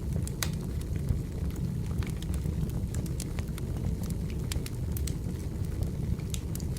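Burning firewood crackling: irregular sharp pops and snaps over a steady low rumble of the flames.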